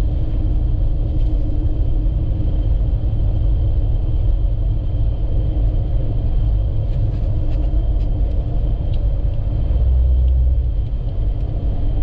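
Road and engine noise of a vehicle being driven, a steady low rumble with a faint steady tone over it.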